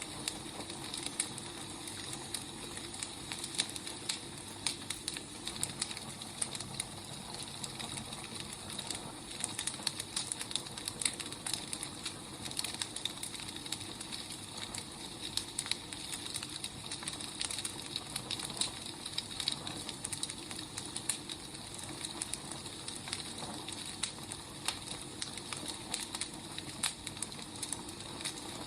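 Wood fire burning steadily, with a constant hiss and frequent small crackles and pops of the burning logs.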